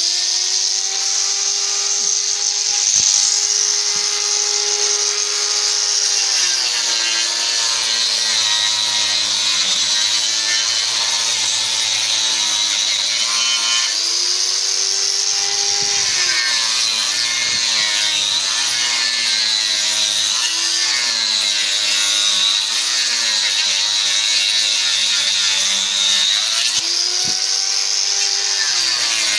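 Electric power tool cutting wood: the motor hums at a steady pitch while running free, then drops and wavers in pitch as it bites into the wood, with a bright hiss from the cut. It frees up briefly a couple of times (about 14 s and 26 s in) before loading down again.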